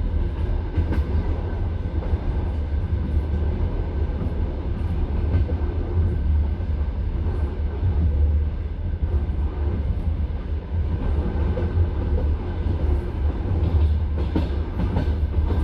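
Passenger train carriage running along the track, heard from inside the car: a steady low rumble of wheels on rails, with a few sharper clicks toward the end.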